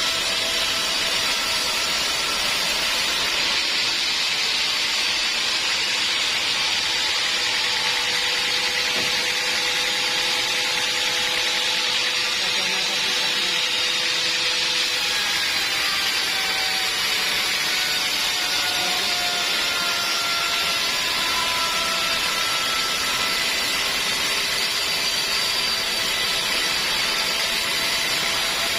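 Band sawmill blade cutting through a log: a loud, steady hiss of sawing with a faint whine that drifts slowly in pitch.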